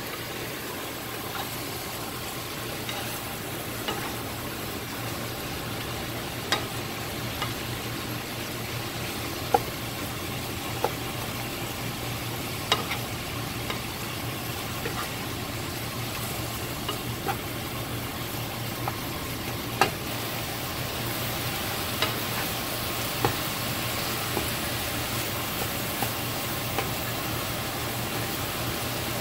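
Sliced bell peppers and onions sizzling in a nonstick frying pan while a wooden spatula stirs them, with short sharp knocks every second or few as the spatula strikes the pan.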